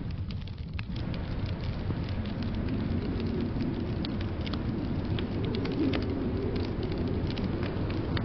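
Wood fire crackling in a fireplace: irregular sharp pops and ticks over a steady low rumble of blizzard wind.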